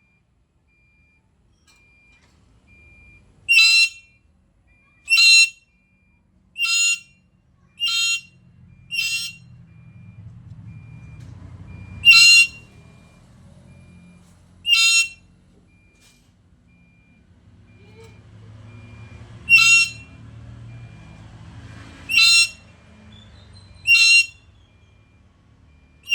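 Black-capped lory giving about ten loud, short, shrill single calls at irregular intervals of one to three seconds. A faint low rumble can be heard in some of the gaps between calls.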